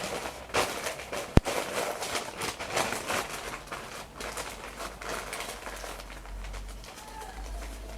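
Close-miked paper crinkling and rustling in irregular bursts, with one sharp click about a second and a half in.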